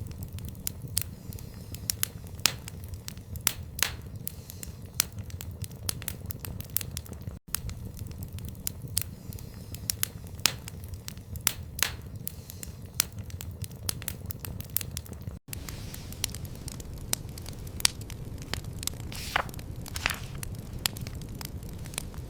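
Wood fire crackling in a stone fireplace: irregular sharp pops and snaps over a low steady rumble of the flames, with a short falling hiss near the end.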